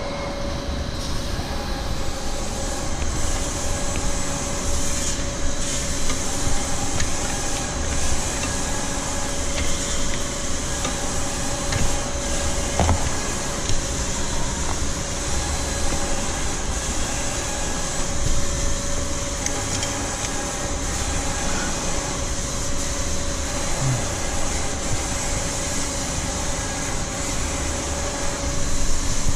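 Electric vacuum pump of a milking machine running steadily, an even mechanical noise with a constant whine.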